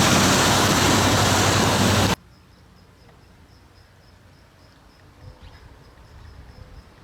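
A loud, steady rush of heavy water noise, from a downpour or a flooded flow, which cuts off abruptly about two seconds in. After it, quiet with faint, evenly repeated high insect chirping and a low rumble.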